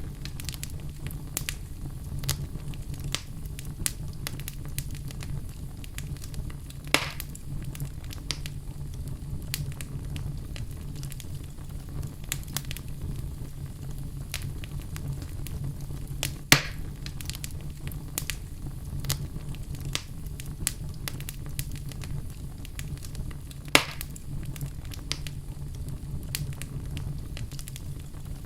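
Fire burning in a fireplace: a steady low rumble of flames with constant small crackles, and three louder sharp pops spread through.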